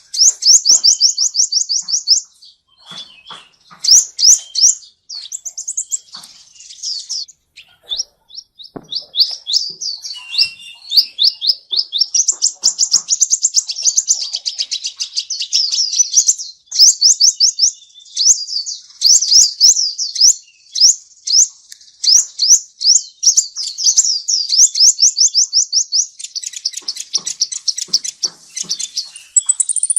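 Small songbird singing in rapid trills of high, sharp chirps, about seven to ten notes a second, with a few short pauses between runs.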